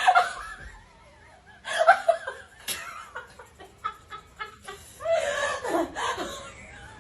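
People laughing in several bursts: one right at the start, another about two seconds in, and a longer one about five seconds in.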